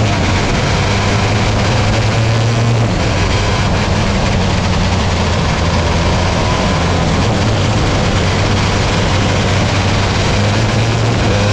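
Dirt-track sprint car engine running hard at high revs, loud and steady, with a slight change in pitch about three seconds in and a rushing noise over it.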